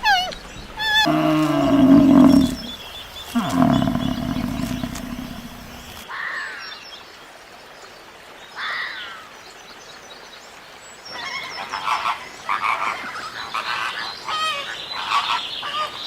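A run of different animal calls: two loud, low, drawn-out roar-like calls in the first six seconds that cut off suddenly, then two short falling calls and, from about eleven seconds in, a busy run of quick high-pitched calls.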